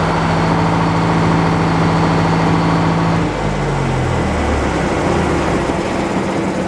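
Engine powering an antique circular sawmill running steadily, then slowing about three seconds in, its pitch stepping down before it settles at a lower, steady idle.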